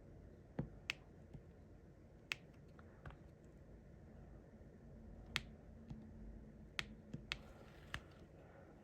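Faint, irregular small clicks and taps, about a dozen: a diamond painting pen picking up drills and pressing them onto the sticky canvas.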